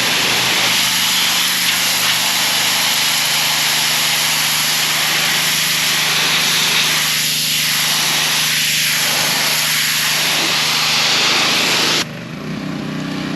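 Gas-engine pressure washer spraying: a loud, steady hiss of the water jet over the running engine. Near the end the spray cuts off suddenly and the engine runs on alone, its pitch rising a little as the load comes off.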